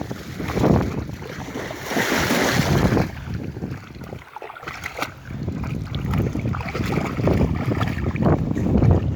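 Wind buffeting the microphone: an uneven low rumble that surges and eases, dropping away briefly about four seconds in.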